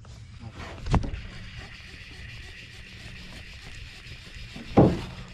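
A sharp knock about a second in and a louder, duller thump near the end, over a steady low hum and a faint hiss.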